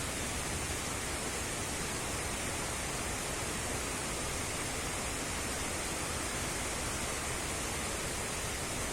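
Steady rush of water cascading down the Neer Garh waterfall stream.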